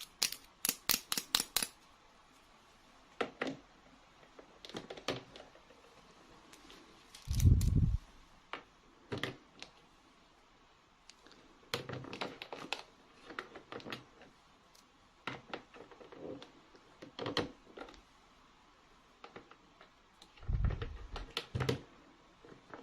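Small plastic toy pieces being handled: a quick run of sharp clicks at the start, then scattered clicks and taps, with two dull thumps, one near the middle and one near the end.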